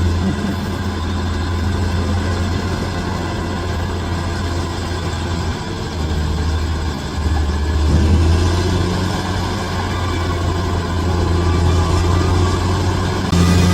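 Bulldozer's diesel engine running steadily under load, easing briefly about six and seven seconds in, then picking up again about eight seconds in.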